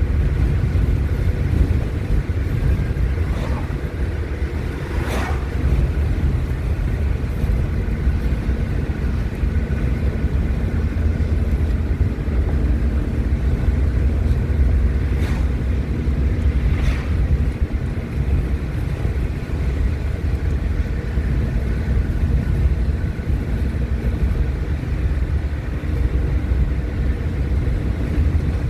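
Steady low rumble of a car's engine and tyres on the road, heard from inside the moving car's cabin, with a few faint ticks.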